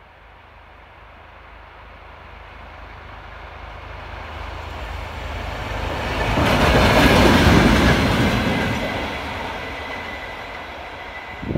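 VR Class Dv12 diesel locomotive hauling a single tank wagon passes close by: its engine and wheel-on-rail noise build up, peak about seven seconds in, then fade as it moves away.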